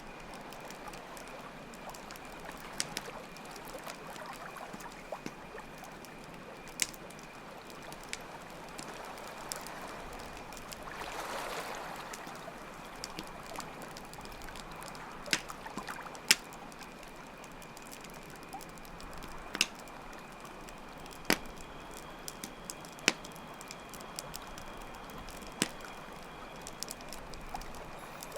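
Campfire crackling, with sharp pops every second or two, over steady running water and a constant high cricket chirp.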